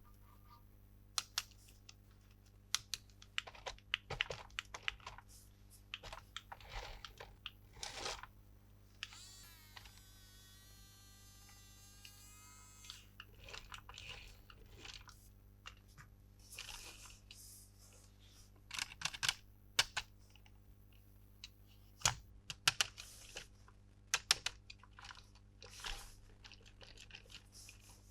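Hands handling plastic toy packaging and parts close to the microphone: irregular clicks, taps and crinkles, with a drawn-out squealing scrape about ten seconds in.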